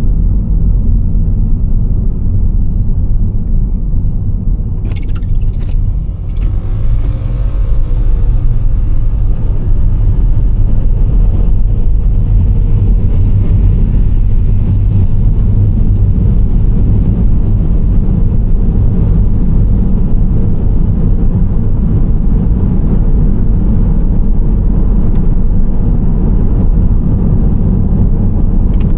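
Steady low rumble of a Nissan Serena C25 minivan driving, with engine and tyre road noise. A brief high hiss comes about five seconds in.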